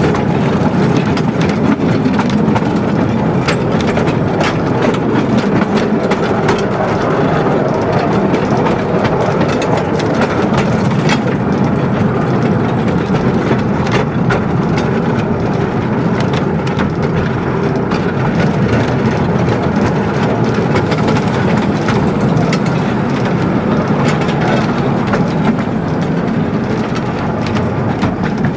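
A 10¼-inch gauge steam train running, heard from the carriage right behind the locomotive: a steady rumble of wheels on track with frequent sharp clicks and clacks over the rail joints.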